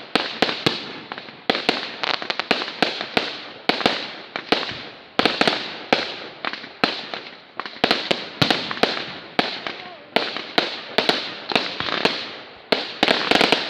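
Fireworks going off in rapid, irregular succession: sharp bangs several times a second, each trailing into crackling, with a denser, louder barrage near the end.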